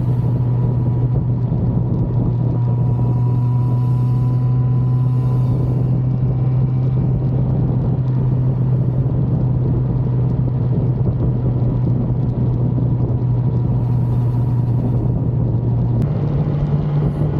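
1985 Suzuki GSX-R750F's oil-cooled inline-four engine running at a steady cruise under way, a constant low note over rumble. Near the end the note steps up slightly higher.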